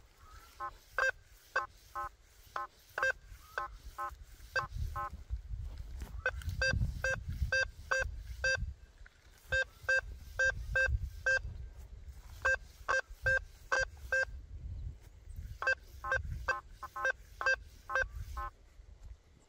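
Quest V80 metal detector on its FIELD 15 kHz program with AllMetal on, giving target tones: runs of short electronic beeps, about three to four a second, in several groups with short pauses between. A low rumble runs underneath.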